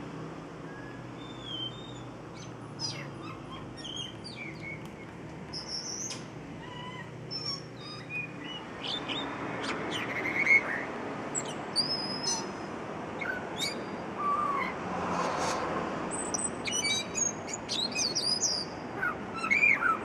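Unidentified birds calling at night: many short chirps and quick rising and falling whistles, often overlapping, over a steady background rumble that swells in the middle.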